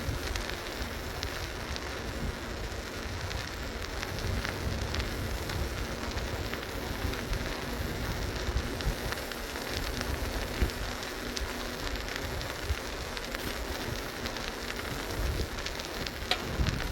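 Riding noise from a moving Schwinn Wayfarer bicycle: wind rumbling on the microphone over a steady, crackling hiss of tyres on pavement, with scattered small clicks and rattles. A few louder knocks come near the end.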